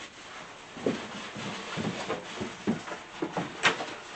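Handling noise from unpacking a boxed hat press: irregular rubbing and knocking of cardboard and packaging, with one sharp click about three and a half seconds in.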